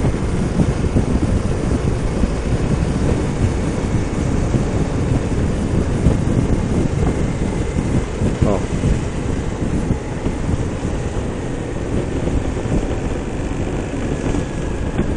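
Wind buffeting the microphone while riding a motorcycle, a steady loud rush of low rumbling noise with road and engine noise underneath.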